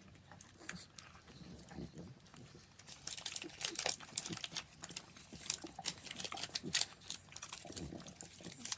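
Close-up chewing of a dense, sticky caramel nougat bar: wet mouth smacks and clicks, more frequent from about three seconds in.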